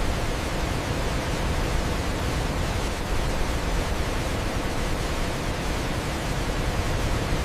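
Waterfall: a steady, even rush of falling water, heavy in the low end, with no change or break.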